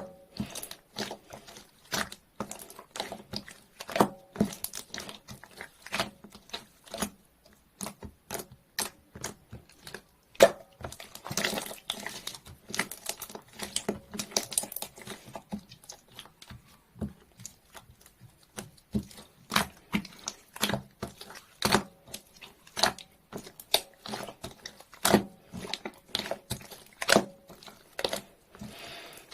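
Clear slime being squeezed and poked by hand, making irregular sharp clicks and popping of trapped air, with a denser crackling stretch around the middle.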